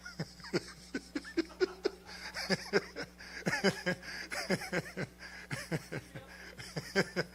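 Laughter: a long run of short, falling 'ha' sounds, several a second, over a steady electrical hum.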